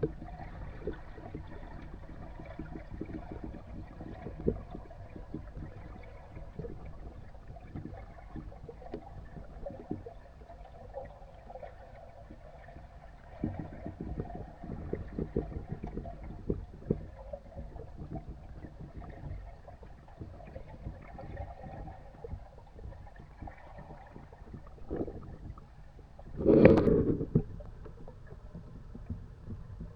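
Water sloshing and knocking against a kayak under a low rumble, with irregular small knocks and one louder bump near the end.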